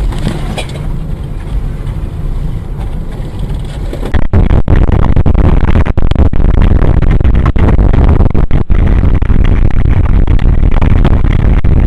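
Car driving, with engine and road noise picked up by a dashcam microphone. About four seconds in it becomes much louder and heavier in the low end, with a few very brief dropouts.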